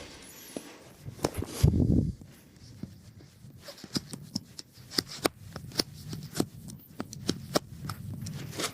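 Knife carving a notch into a wooden stick: a string of short, sharp wood clicks and cracks, with a heavier knock about two seconds in.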